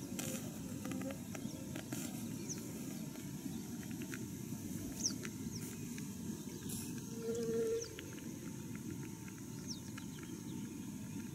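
Wild birds giving short, high, falling chirps every couple of seconds over a steady low rushing background, with a few faint clicks. A brief, lower, louder call or tone comes about seven seconds in.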